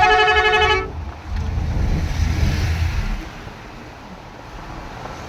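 A vehicle horn sounds once for under a second, then a motor vehicle's engine runs past with a low rumble that fades about three seconds in.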